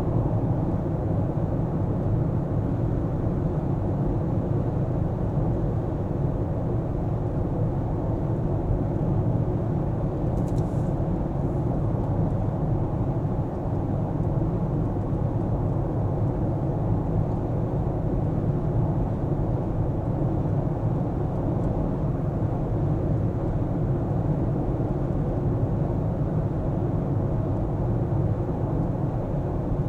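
Steady low rumble of a car being driven through city streets: engine and tyre road noise with no sudden events.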